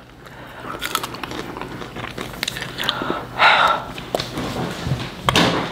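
Two people biting and chewing mouthfuls of butterfly popcorn close to the microphone, a run of small crunches, with a short breathy burst about three and a half seconds in.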